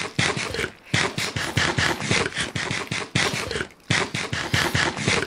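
Close-up biting and chewing of a slice of crisp-baked frozen pizza: quick, even crunching of the crust, broken by two short pauses.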